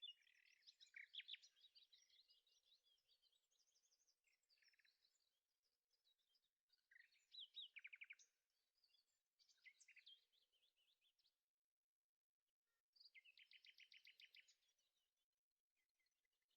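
Faint songbird song: phrases of rapid chirps and trills separated by short pauses, with a longer pause a little past the middle.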